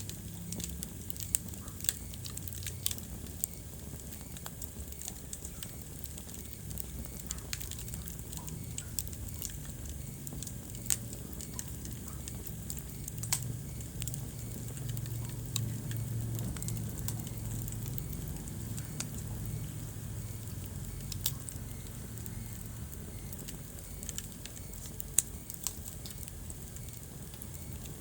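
Wood fire crackling in a fireplace: scattered sharp pops and snaps over a steady low rumble of the flames, with one louder pop near the end.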